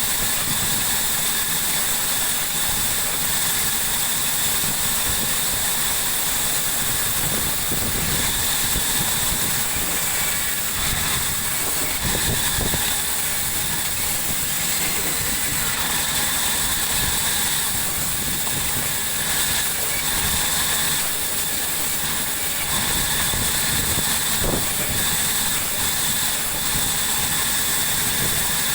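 Sawmill saw running steadily, with a constant high whine over a hiss.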